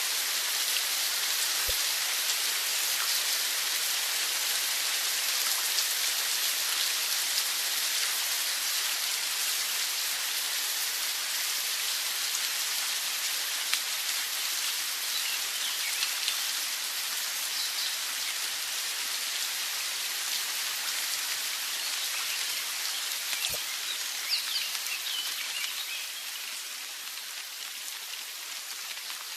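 Steady rain falling, an even hiss without a rhythm, with a few faint high chirps around the middle and near the end. It fades slightly toward the end.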